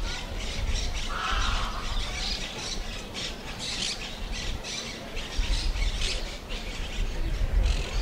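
Birds calling in a rapid string of short, high, harsh calls, over a low rumble.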